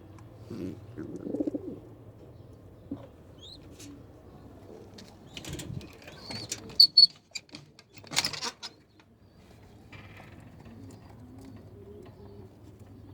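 Pigeons cooing in low, repeated phrases, with a few sharp knocks and a short rustling burst about two thirds of the way through.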